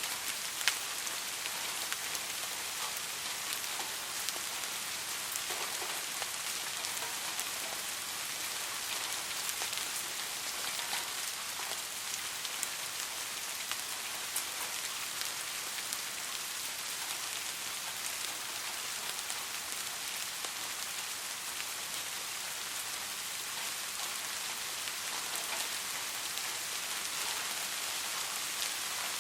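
Steady rain falling on a surface, an even hiss with scattered individual drop ticks, one sharper drop about a second in.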